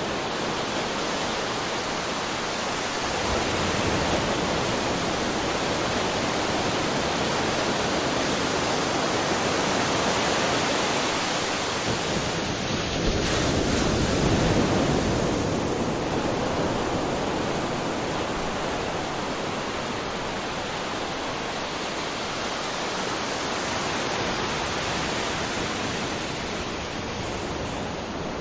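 Ocean waves breaking and washing ashore: a steady wash of surf that swells and ebbs slowly, with the biggest swell about halfway through.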